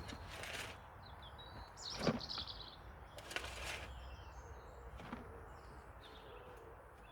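A few short scrapes and scoops of a garden tool working in old wood chips, the loudest about two seconds in, with birds chirping in the gaps.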